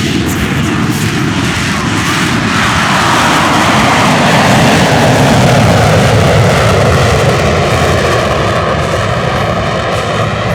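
Jet engine of an F-35B Lightning II at takeoff power as it rolls down the runway and climbs away. A loud, steady jet noise builds to its peak about five seconds in, then eases a little.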